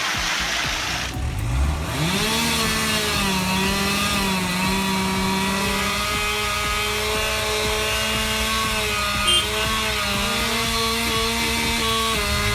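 Chainsaw revving up about a second in and then running at full throttle, its high engine note steady with small dips as it loads in the cut, dropping off at the very end.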